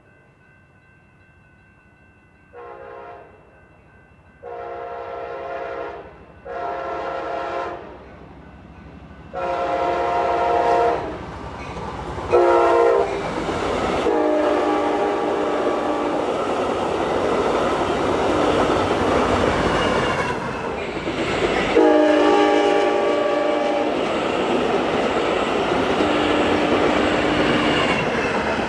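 Amtrak San Joaquin passenger train sounding its multi-tone air horn in a series of blasts as it approaches, each louder than the last. It then passes close by with a loud, steady rolling noise of wheels on rail, the horn still sounding over it and trailing off near the end.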